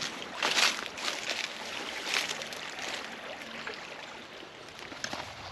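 A few footsteps in the first couple of seconds, then a creek running steadily.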